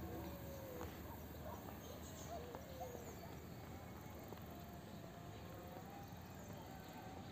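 Faint, quiet rural ambience with a few short bird calls scattered through it.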